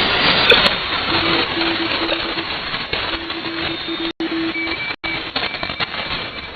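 Shortwave radio static hiss from a WebSDR receiver, with a faint Morse code signal keying a low tone on and off in dots and dashes through the middle. The audio drops out briefly twice.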